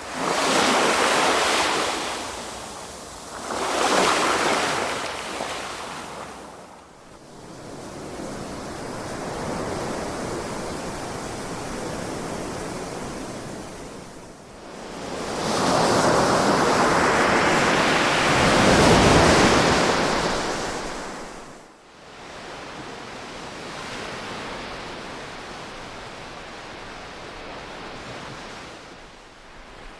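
Ocean waves breaking and washing onto a shore in slow surges of rushing surf. Several smaller swells come and go, and the biggest builds about halfway through and falls away a few seconds later.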